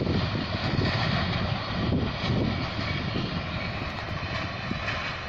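Passenger train hauled by a diesel-electric locomotive receding into the distance, its steady rumble slowly fading away.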